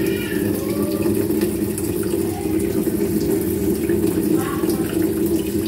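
Water running steadily from the tap into the washing machine: the supply flowing freely again now that the sand and dirt blocking the inlet pipe have been cleared.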